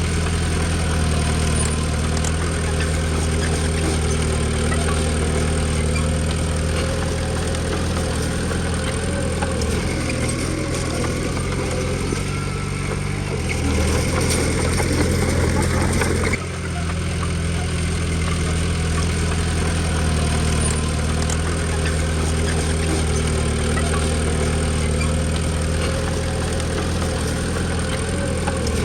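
Diesel engine of a Komatsu D20P bulldozer running steadily under work. The sound breaks off abruptly about sixteen seconds in and picks up again at once.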